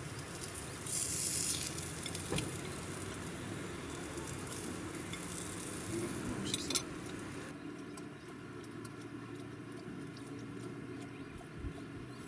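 Slices of Spam sizzling in a small frying pan on a gas canister stove, with a louder burst of sizzling about a second in and a few sharp clicks of chopsticks against the pan. About seven and a half seconds in the sizzle drops away to a much quieter hiss.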